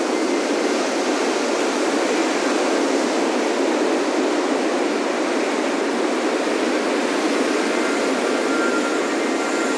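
Ocean surf washing steadily onto a beach, a continuous even rush with no single wave standing out. Faint wind-chime tones ring near the end.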